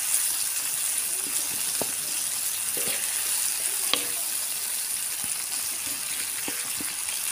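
Ground chili-tomato balado paste sizzling steadily in hot oil in a wok as it is stirred with a spatula. A few short knocks of the spatula on the pan, the sharpest about four seconds in.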